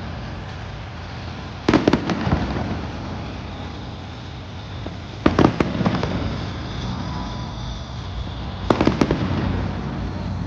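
Fireworks bursting overhead: three volleys of booms with crackling tails, about three and a half seconds apart, over a steady outdoor hum.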